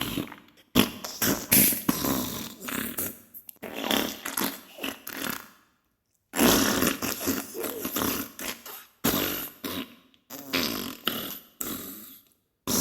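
Diarrhea sound effect: wet fart sounds in runs of irregular bursts, broken by short silences a few times.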